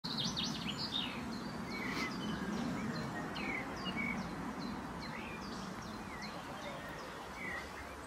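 Songbirds chirping: a quick cluster of high chirps at the start, then short whistled notes, some swooping down, about one or two a second. A steady background hiss and low rumble runs underneath.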